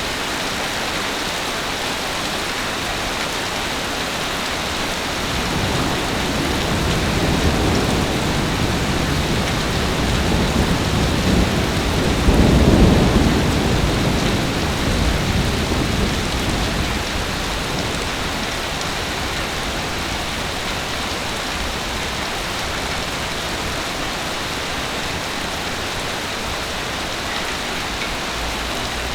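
Heavy rain falling steadily, with a long rolling rumble of thunder that swells from about five seconds in, peaks in the middle and fades away.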